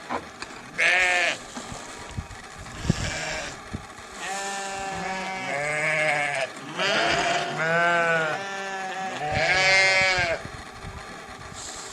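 Sheep bleating: several drawn-out, quavering bleats, at least two of them much lower-pitched than the others.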